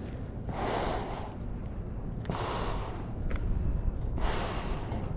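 A person breathing heavily, three long breaths about two seconds apart, over a steady low rumble.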